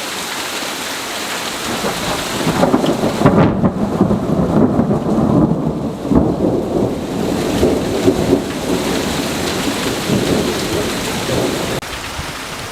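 Thunder from a nearby lightning strike, a long crackling rumble that builds about two and a half seconds in and fades near the end, over steady rain.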